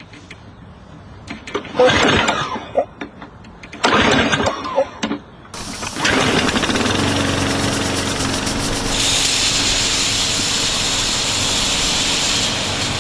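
Small petrol lawn mower engine being pull-started: two short bursts, then it catches about five seconds in and runs steadily. A higher steady hiss joins the engine sound after about nine seconds.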